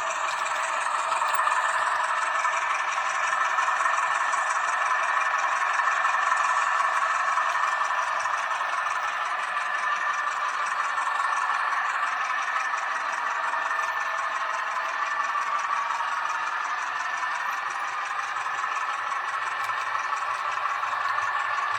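H0-scale model train running on its track, a steady whir and rattle from the motor, gearing and wheels on the rails.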